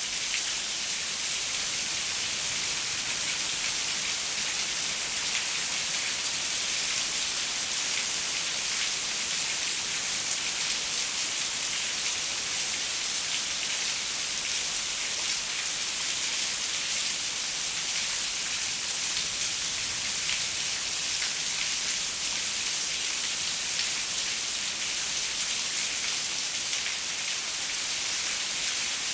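Steady rain pattering on a window, a dense even hiss of many fine drop ticks.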